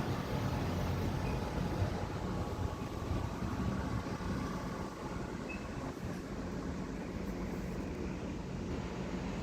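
Steady low rumble of distant vehicles in outdoor ambience, with no clear individual events.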